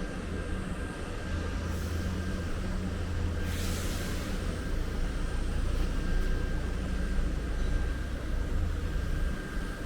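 Steady low rumble of a large vehicle's engine with a faint constant whine, and a short hiss about three and a half seconds in.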